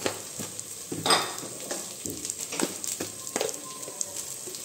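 Onions and ground spices sizzling in hot oil in a metal pressure cooker while a metal slotted spoon stirs and scrapes against the pot, with short clicks and scrapes over the steady sizzle; the loudest scrape comes about a second in.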